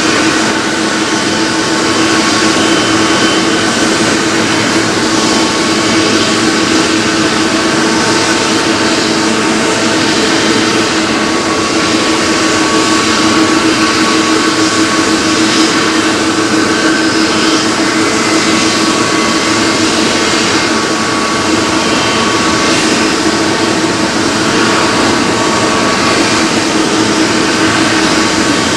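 Jet airliner engines running steadily, a loud even rush with a steady whine held throughout.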